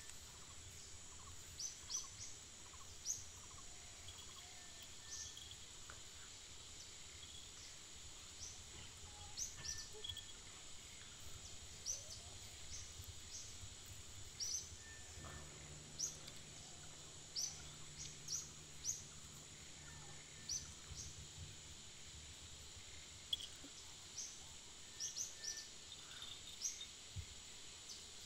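Small birds chirping in short, sharp calls, scattered irregularly, over a steady high hiss of outdoor ambience. A faint low hum comes in for several seconds midway.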